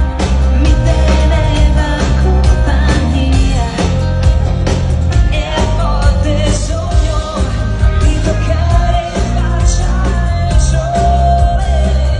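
Live pop music: a female lead singer with a full band, heavy bass and steady drums.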